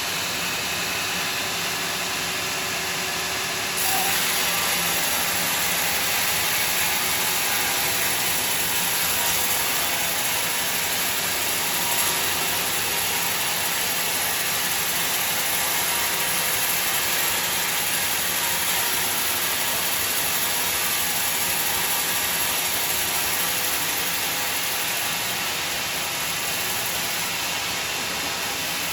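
Sawmill saw running steadily and cutting timber. A louder, hissier noise sets in about four seconds in and eases off near the end.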